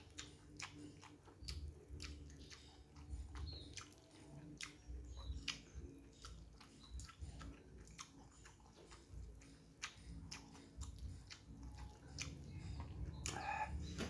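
Close-up eating sounds of a man chewing mouthfuls of noodles, egg and rice: soft wet smacking clicks at an irregular pace over low chewing thumps. A short pitched sound comes in near the end.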